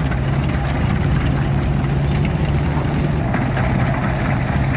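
An engine running steadily at constant speed, with a strong, unchanging low hum.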